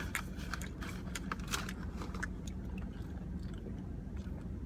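A person biting and chewing fast food with wet, crunchy mouth clicks, busiest in the first couple of seconds and sparser after, over a low steady hum.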